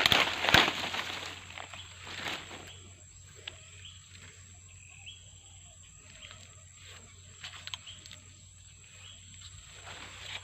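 Rustling and crunching in dry forest undergrowth, loudest in the first second and again about two seconds in, then faint scattered crackles with a few short high bird chirps.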